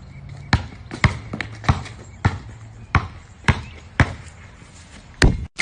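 A series of sharp knocks or bounces, irregularly spaced at roughly two a second, with a faint low hum under the first half.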